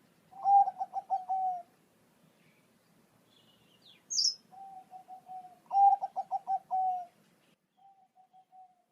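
Zebra dove (perkutut, Thai 'Bangkok' song line) cooing in phrases of rapid, rolling staccato coos: two full phrases and a softer short one near the end. A brief high chirp from another bird comes about four seconds in.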